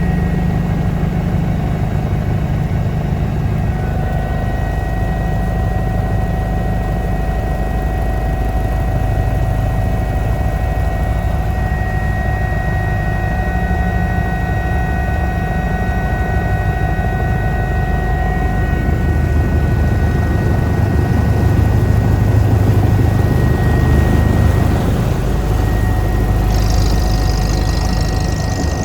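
Eurocopter EC145 twin-turbine helicopter running: a steady engine and rotor drone with a few fixed high whining tones over it.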